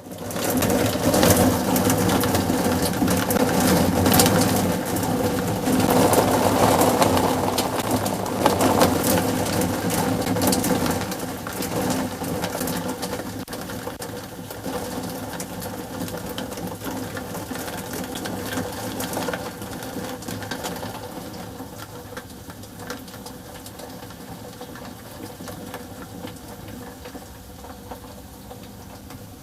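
Thunder rolling during a thunderstorm: a long rumble that swells in the first second, stays loud for about ten seconds, then slowly fades, with sharp crackles through it.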